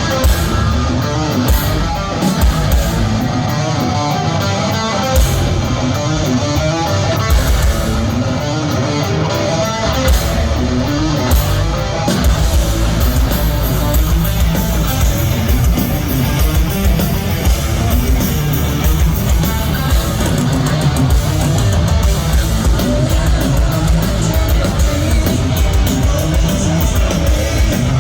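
Heavy metal band playing live through a concert PA: electric guitar lead lines over stop-start band hits, then the full band with drums driving continuously from about twelve seconds in.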